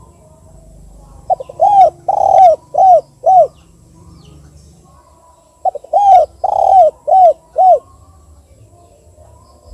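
Spotted dove cooing: two phrases, each a short lead note followed by four arched coos, the second phrase starting about two seconds after the first ends.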